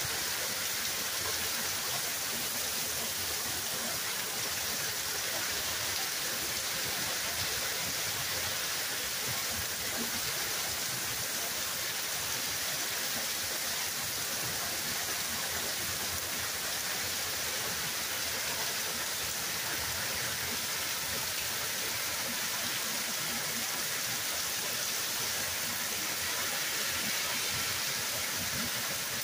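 Hard rain pouring steadily on grass, pavement and trees: an even, unbroken hiss.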